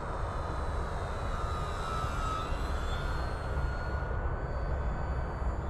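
Electric motor and propeller of an FMS Cessna 182 1.5 m RC plane whining steadily in cruise flight, the pitch drifting slightly up and down as it flies past, over a steady low rumble.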